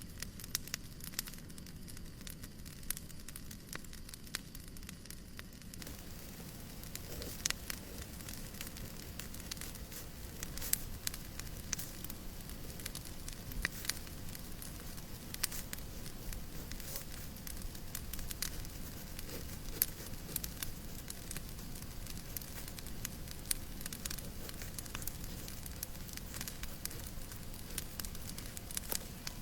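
Fireplace fire crackling, with irregular sharp pops and snaps over a steady soft hiss.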